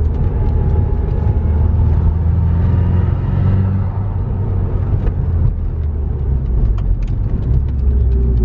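Nissan Silvia S15's turbocharged SR20DET four-cylinder engine and 3-inch downpipe exhaust, with the car being driven: a steady low drone, with a faint higher tone rising and falling between about one and four seconds in.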